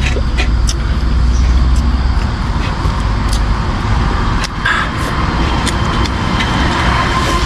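Road traffic going by, a low vehicle rumble strongest in the first two seconds over a steady traffic noise, with a few light clicks.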